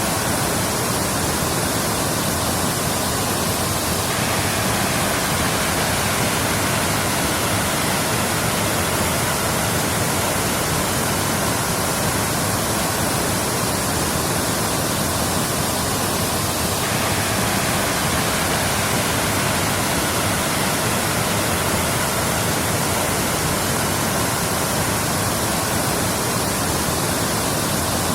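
A waterfall: falling water rushing in a steady, unbroken hiss.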